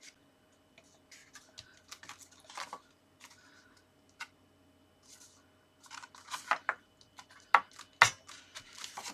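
Card and paper pieces being handled and pressed down on a work surface: scattered rustles and light taps, with two sharper clicks near the end.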